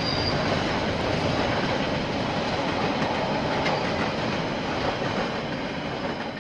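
KiwiRail train rolling past on the line: a steady, loud noise of wheels on rails that begins to fade near the end as the train moves away.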